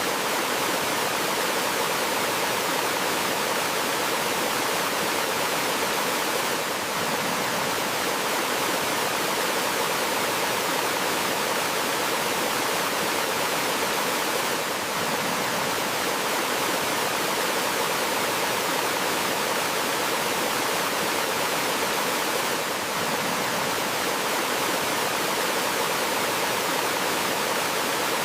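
Small forest waterfall splashing and rushing steadily, a dense hiss with no single splashes standing out. The level dips slightly about every eight seconds.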